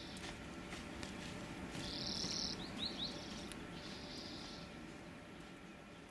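A small bird calling: short, high, buzzy trills repeated every second or two, with a few quick downward chirps about halfway through.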